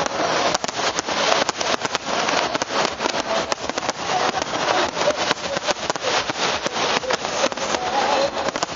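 Fireworks display: a dense, continuous crackle of many small sharp pops from bursting shells, over a steady hiss.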